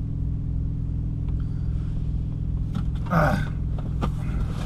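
Semi truck's diesel engine idling, a steady low drone.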